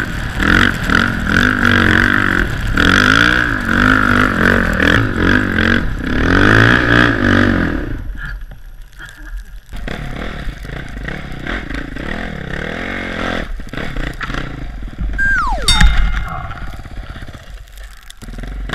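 Dirt bike engine revving hard up and down for about eight seconds, then running quieter. Near the end a tone drops sharply in pitch, followed by a loud clatter.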